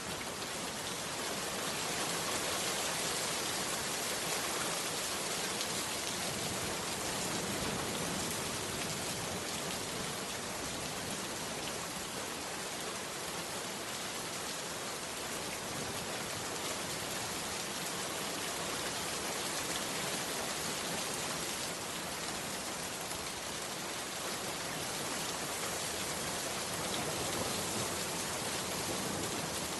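Heavy rain pouring down steadily, an even hiss with no thunder or other sounds.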